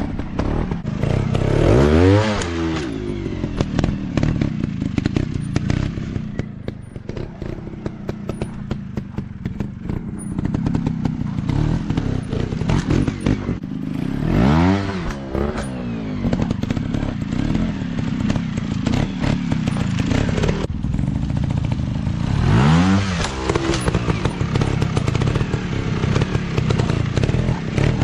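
Dirt bike engines running, with the throttle opened and closed three times: the engine note climbs and drops back about 2 seconds in, around the middle, and near the end.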